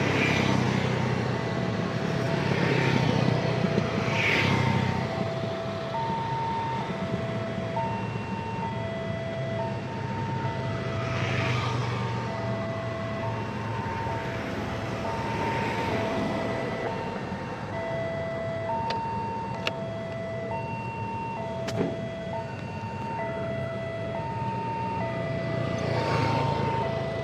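Railway level-crossing warning alarm sounding a steady two-tone signal, the two pitches alternating about every second, over the running engines of road traffic. Motorbikes and cars pass close by every few seconds, and there are two sharp clicks about two-thirds of the way through.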